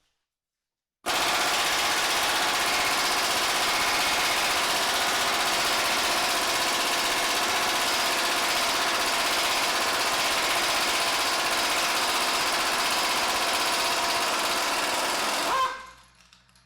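Impact gun hammering without a break on a stubborn bolt of a BMW S52 engine. It starts about a second in and cuts off abruptly near the end, with the bolt breaking loose.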